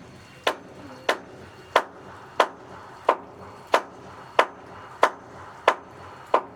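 Steady hammering on wood, sharp strikes at an even pace of about one and a half a second, as when planks are nailed or knocked into place.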